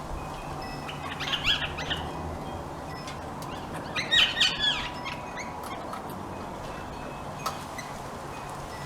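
Bird chirping in two short bursts of quick rising and falling notes, about a second in and again about four seconds in, over a low steady hum.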